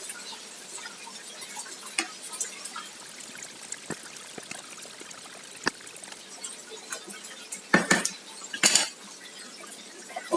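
Scattered light clicks and clinks of kitchen utensils and cookware, with two louder, brief clatters about three-quarters of the way through.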